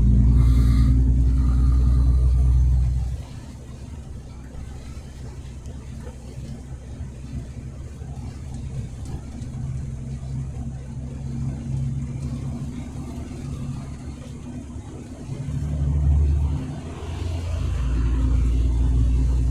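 Truck running on the road, heard as a low engine and road rumble. The rumble drops off sharply about three seconds in, stays lower with a steady hum, and swells back up near the end.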